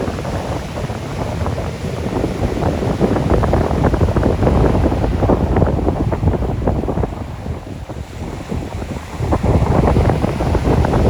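Strong wind buffeting the microphone in loud, rumbling gusts, with beach surf under it. The wind eases briefly about three-quarters of the way through, then picks up again.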